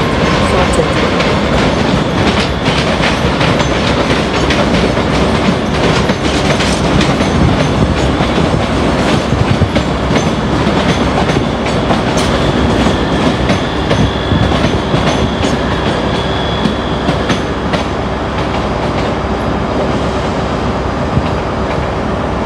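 A train running through the station tracks at close range, its wheels clicking rapidly and irregularly over rail joints and points, with a steady hum joining about halfway through.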